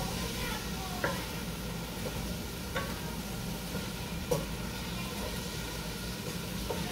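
Chopped onion and garlic sizzling in oil in a stainless steel saucepan, stirred with a wooden spoon that knocks sharply against the pan four times. A steady low hum runs underneath.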